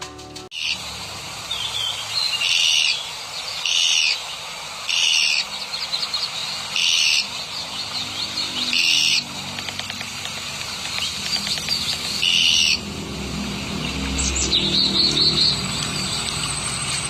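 Birds calling: a loud, short, high call repeated six times at uneven gaps of one to three seconds, with softer, quicker chirping in between. A faint low rumble runs under the last few seconds.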